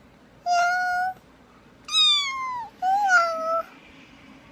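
A cat meowing three times: a level first meow, a second that falls in pitch, and a third that rises and then falls.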